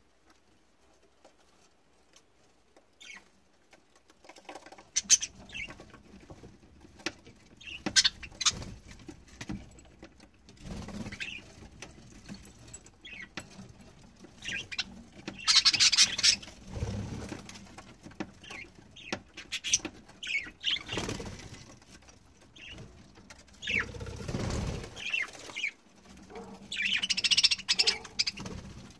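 Budgerigars bathing: bursts of wing flapping and splashing water, mixed with short chirps. The sound starts about four seconds in.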